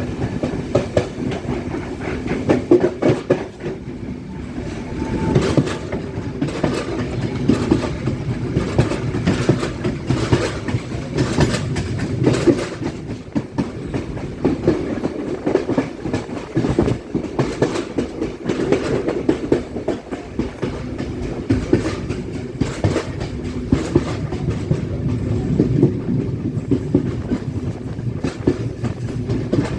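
Passenger train running along the line, a steady rumble with the wheels clacking irregularly over the rails throughout.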